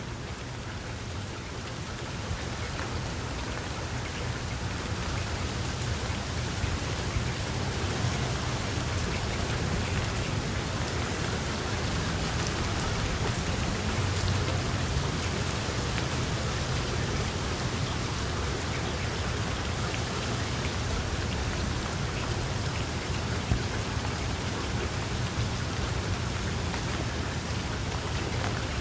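Steady heavy rain falling, a dense even patter with a low continuous rumble underneath, growing a little louder over the first several seconds and then holding steady.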